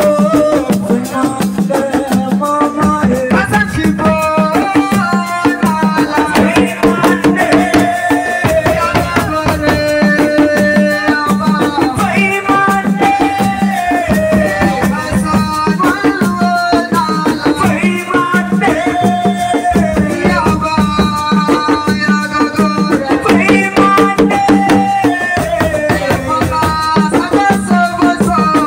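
Assiko band music: fast, dense drumming with shaken rattles under a melodic lead line that steps up and down in pitch.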